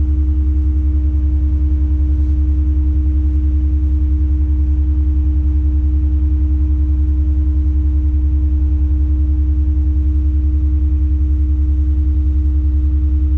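Tadano 180G-5 all-terrain crane's diesel engine running steadily, heard from inside the operator's cab: a deep, pulsing drone with a steady hum above it.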